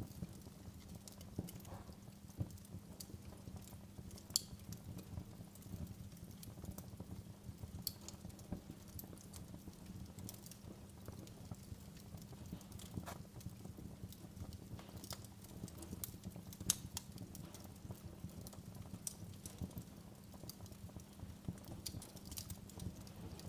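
Wood fire burning in a fireplace: a steady low rumble of the flames with irregular crackles and pops, a few sharper snaps standing out.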